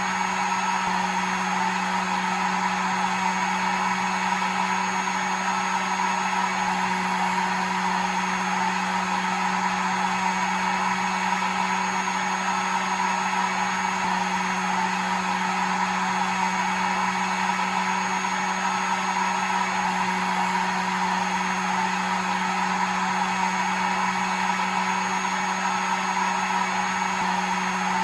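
Electric hair dryer running steadily: an even blowing hiss with a constant motor hum beneath it, used as white noise to lull a baby to sleep.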